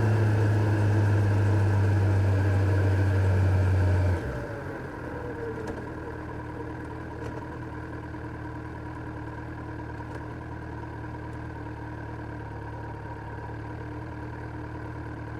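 Kawasaki Z900's inline-four engine idling steadily, then cut off suddenly about four seconds in, leaving a quieter steady hum.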